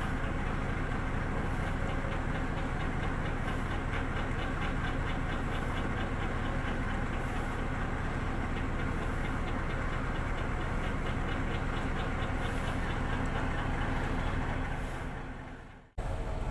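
Boat engine running steadily, with a fast regular mechanical ticking over its low hum. It fades out near the end.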